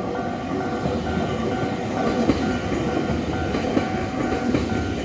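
Local electric train on the Nankai Kada Line passing over a level crossing, its wheels rumbling and clacking over the rail joints. Under it the crossing's warning bell keeps ringing, about two rings a second.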